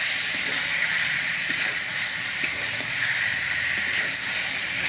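Chicken frying in a pan: a steady sizzling hiss with faint scattered crackles.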